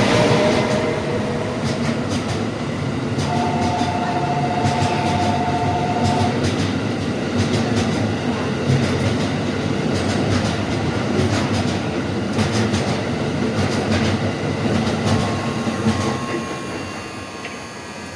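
Freight train of white Hoki hopper wagons running through, its wheels clattering over the rail joints in a steady rhythm. A steady two-note tone sounds for about three seconds near the start, and the train noise fades away near the end as the last wagons pass.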